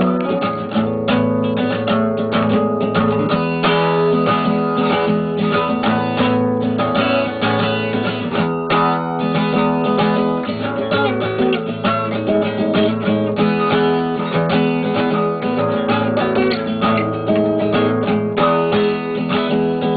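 Instrumental passage of a song with no singing, led by strummed guitar chords.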